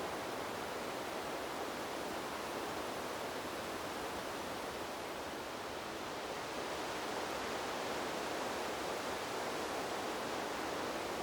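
Wind blowing through trees: a steady, even rushing hiss with no gusts or breaks, growing slightly louder about seven seconds in.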